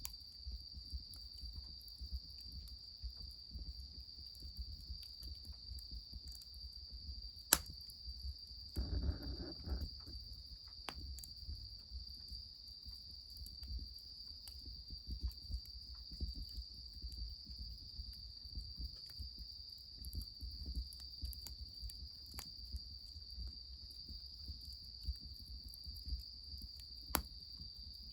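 A continuous high-pitched chorus of crickets and other insects over the soft crackle of a wood fire. Two sharp clicks stand out, one about seven and a half seconds in and one near the end, and a brief rustling burst comes just after the first.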